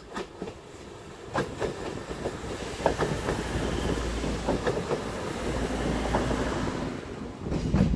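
Train passing on the line, its wheels clicking over the rail joints, getting louder over the first few seconds.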